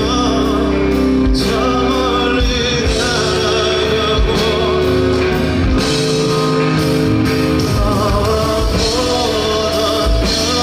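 Live band music with a sung melody over it, steady and full throughout.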